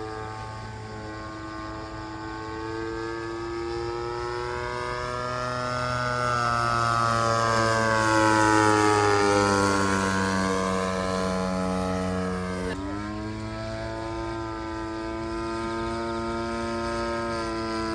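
Engine and propeller of a radio-controlled Pitts Challenger aerobatic biplane running in flight, a steady buzzing drone that grows louder as the plane passes closest about halfway through. About two-thirds of the way in the engine pitch jumps up suddenly as the throttle is opened.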